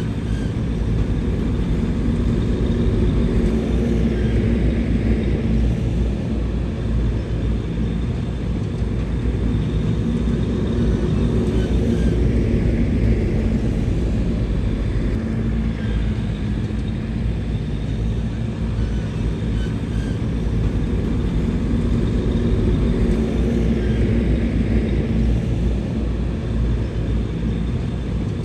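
Bulldozer's heavy diesel engine running steadily under load, swelling a little and easing again every several seconds as it works.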